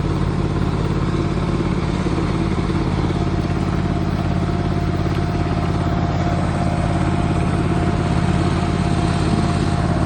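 Engine of a 1/8-scale ride-on FEC diesel model locomotive running at a steady, even drone.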